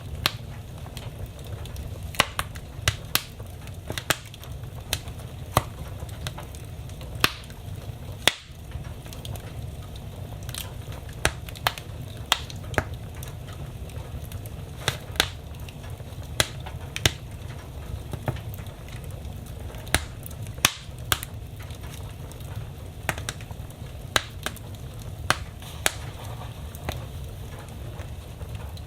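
Wood fire burning in a fireplace, crackling with sharp, irregular pops about once or twice a second over a steady low noise.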